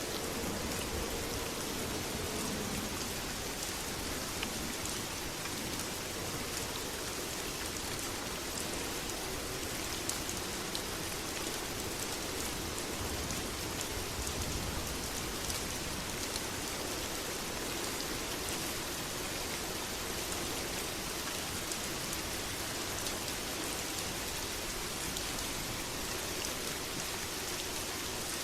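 Steady, heavy rain falling, with scattered sharp ticks through it.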